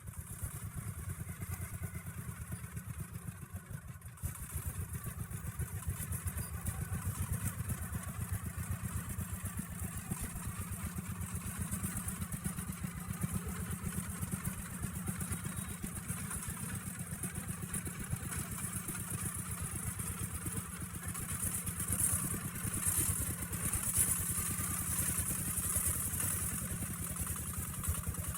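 Log-laden truck's engine running steadily at low speed as the truck rolls slowly downhill. A rushing hiss rises over it for a few seconds about three quarters of the way through.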